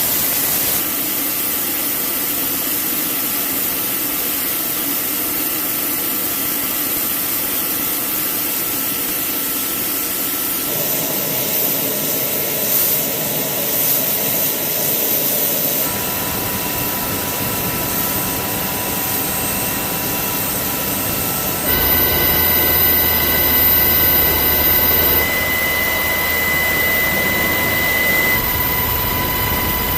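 HH-60G Pave Hawk helicopter's twin turboshaft engines running with a steady rush of noise and high turbine whine. The sound changes abruptly a few times, growing louder with a low hum added about two-thirds of the way in.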